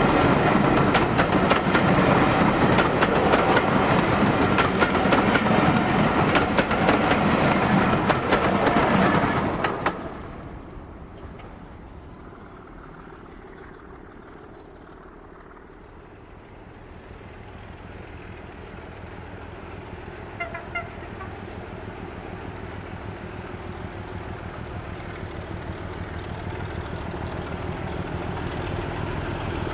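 A diesel-hauled train passing close by, loud, its engine running hard over clattering wheels on the rails, cut off abruptly about ten seconds in. After that a diesel locomotive's engine is heard at a distance, steady and slowly growing louder as it approaches.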